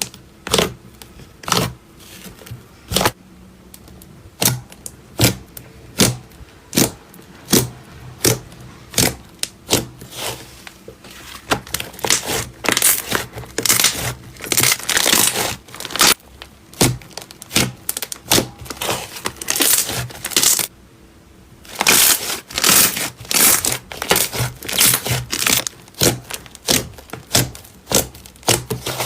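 Slime being squeezed and poked by hand, giving runs of sharp crackling pops and clicks, with a short lull about three-quarters of the way through.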